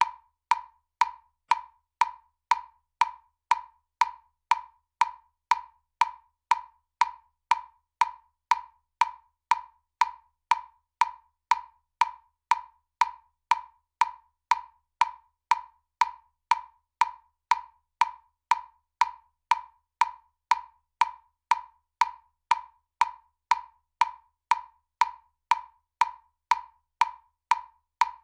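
Metronome ticking at a steady tempo: identical short, pitched clicks, about two a second.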